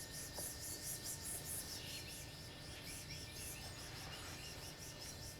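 Faint, rapid high-pitched chirping like crickets, over a low background rumble.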